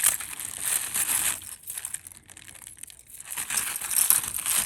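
Packaging being crinkled and crumpled in the hands. It comes in two louder spells of irregular crackling, one at the start and one near the end.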